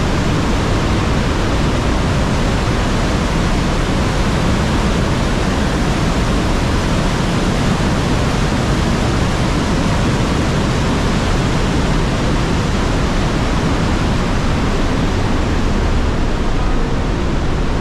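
Trümmelbach Falls' glacier meltwater cascading through its rock gorge: a loud, steady rushing of falling water that never lets up.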